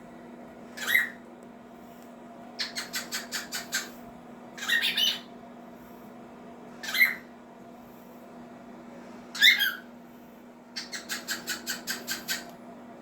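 Cockatiel calling: a few short shrill squawks spaced a couple of seconds apart, and twice a rapid string of quick clipped notes, about eight to ten in a row.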